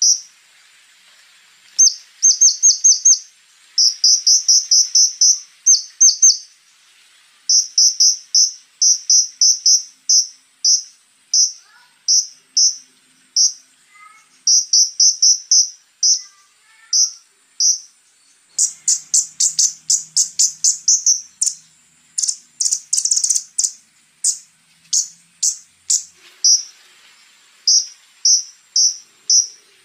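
Konin (scarlet-backed flowerpecker) singing: rapid runs of sharp, high ticking notes in bursts with short pauses. The notes turn harsher and reach higher for a few seconds in the middle.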